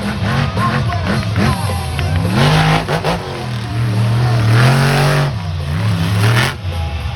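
Monster truck engine revving hard, its pitch climbing and falling in two big surges, with music playing underneath.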